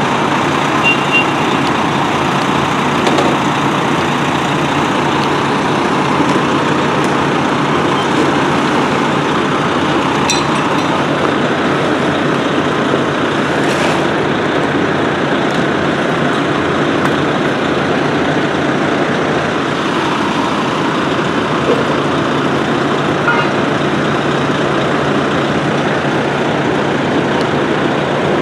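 Steady, loud motor-vehicle noise: a heavy engine running with a constant low hum, without a break.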